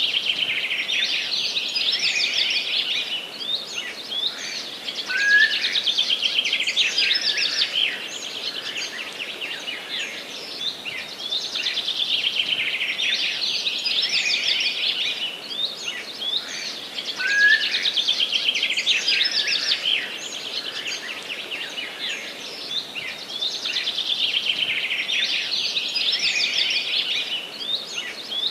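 Several songbirds singing in a forest: phrases of quick, high warbling trills a few seconds long, following one another with short gaps, over a faint steady background hiss.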